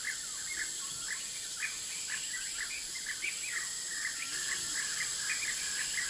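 Several birds calling at once, short sharp notes repeated roughly twice a second, over a steady high-pitched buzz of insects.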